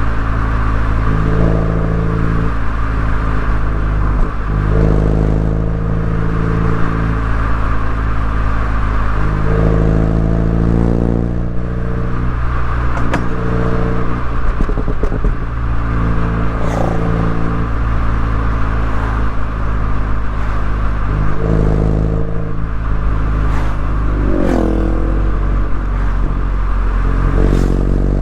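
MINI Cooper S engine and exhaust under way on a winding road, the note shifting up and down several times as it accelerates, lifts off and changes gear, over steady road and wind hiss.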